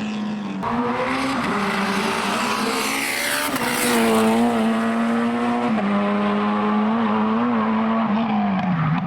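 Tarmac rally car's engine running hard on the track, a steady note that gets louder as the car passes about three to four seconds in, and drops in pitch near the end.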